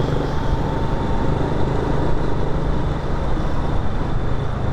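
Motorcycle running steadily while riding in traffic, with a constant low engine rumble and road noise.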